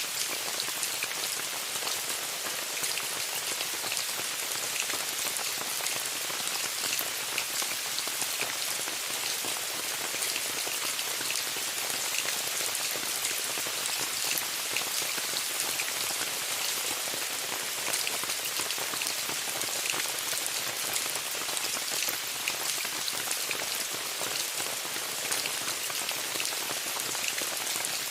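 Steady rain falling on a tent: an even hiss with many separate drop ticks landing on the fabric.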